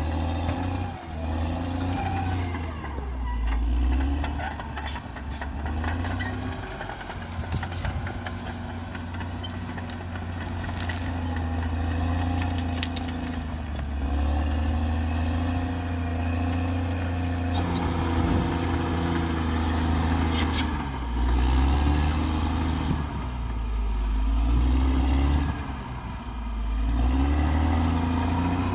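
Bulldozer diesel engine (CAT D6R XL) running under changing load, its pitch rising and falling as it works, with metal clanks now and then.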